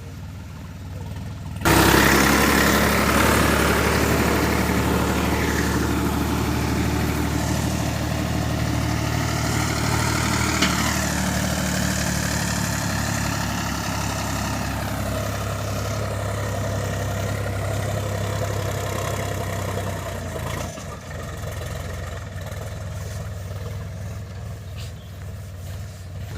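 Sonalika DI 50 RX Sikander tractor's diesel engine running, suddenly much louder about two seconds in. A steady low drone runs under it, with a whine above that rises and falls several times. It eases somewhat about twenty seconds in.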